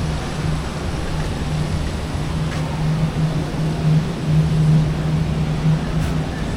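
A steady low mechanical hum with one constant low tone, over a rumbling background.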